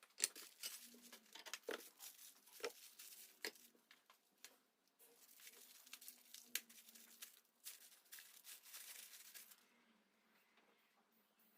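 Handling noises at a workbench: sharp clicks and small knocks mixed with crinkling, tearing rustle, as of parts and their wrapping being handled. The rustling stops about ten seconds in.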